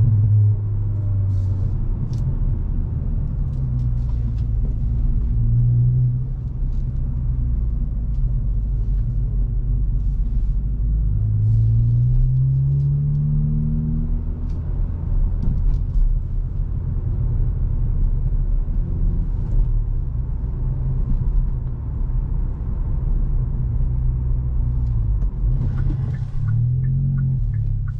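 Hyundai i20 N's turbocharged 1.6-litre four-cylinder engine and exhaust running steadily while driving, with road noise. About halfway through, the engine note rises in pitch as the car accelerates. A quick run of light ticks comes near the end.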